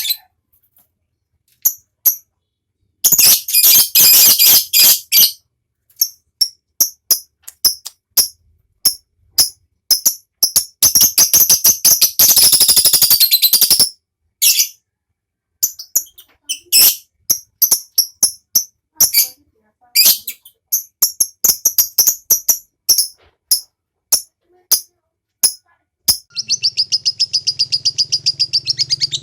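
Lovebird chattering in the long rapid 'ngekek' trill, in bursts of fast high chirps broken by single sharp chirps and sudden gaps of silence. Near the end an unbroken trill starts over a low hum.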